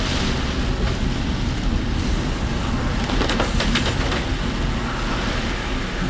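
Car driving through typhoon rain and wind: steady road and tyre noise with rain hitting the car, and a few sharp taps about three and a half seconds in.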